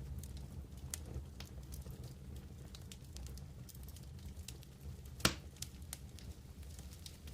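Wood campfire crackling, with scattered small pops and one louder pop about five seconds in, over a low steady rumble.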